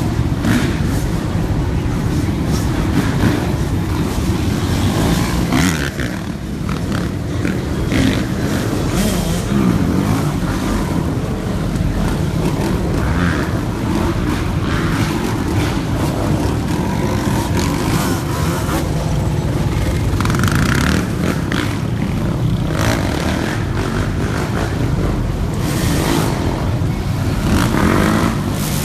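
Engines of cars and motorcycles running loudly at close range, revving for burnouts.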